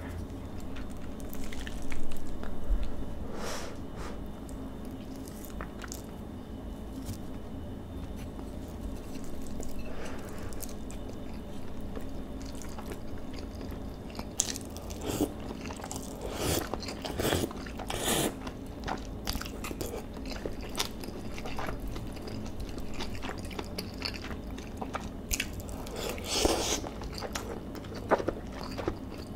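Close-miked chewing and mouth sounds of a person eating marinated beef bulgogi with enoki mushrooms, with scattered louder bites and smacks, strongest about two seconds in, in a cluster in the middle and again near the end.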